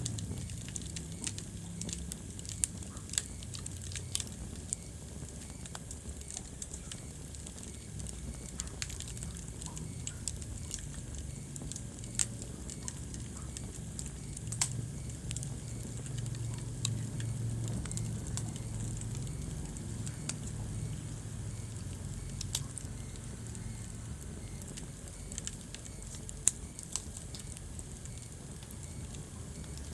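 Wood fire crackling in a fireplace: irregular sharp pops and snaps over a low steady rumble, with one louder pop near the end.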